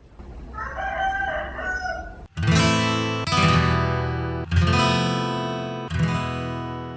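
A rooster crows once, then acoustic guitar music starts about two seconds in, with chords struck about once a second and left to ring.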